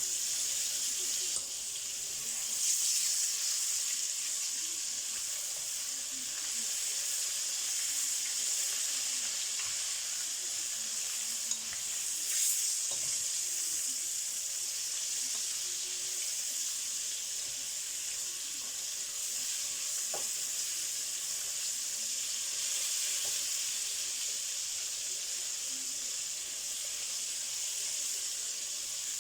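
Breaded chicken strips, dipped in egg and coated in flour, sizzling steadily as they fry in a pan. A few light taps come around the middle.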